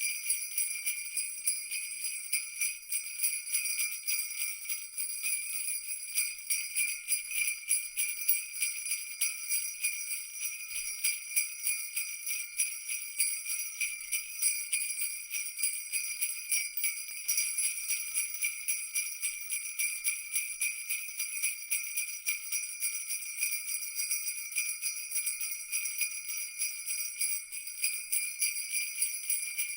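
Christmas jingle bells (sleigh-bell cascabeles) shaken continuously in a fast, steady jingle, bright and high-pitched.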